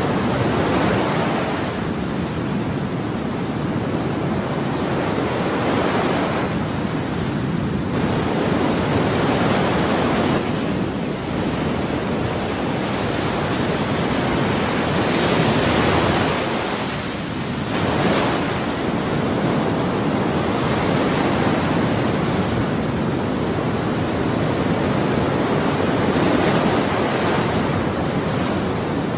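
Ocean waves breaking and washing on a shore: a continuous rushing hiss that swells as each wave comes in, several times over.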